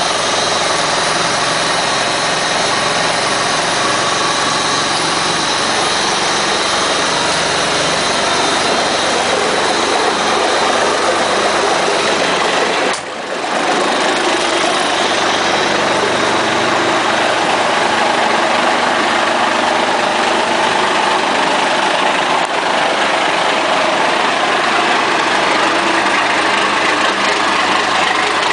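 A 1986 International dump truck's engine idling steadily just after a cold start, with a brief dip in loudness about halfway through.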